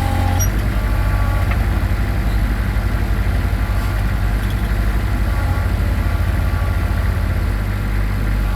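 Small excavator's engine running steadily with a low, even chug. The drone shifts slightly about seven and a half seconds in.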